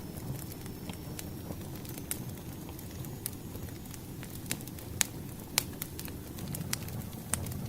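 Wood fire crackling: a steady low rumble of burning logs with scattered sharp pops and snaps at irregular moments.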